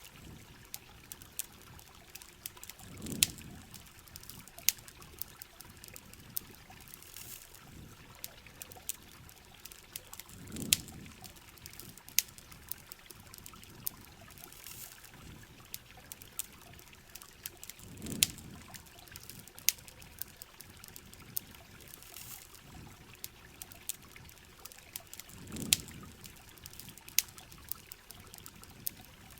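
Steady rain and trickling water, with frequent sharp crackles and pops from a campfire. A low whoosh swells and fades about every seven and a half seconds.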